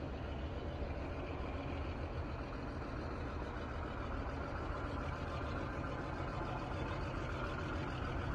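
Heritage passenger train running slowly along the line: a steady low engine rumble with wheel and track noise, heard from beside the coaches.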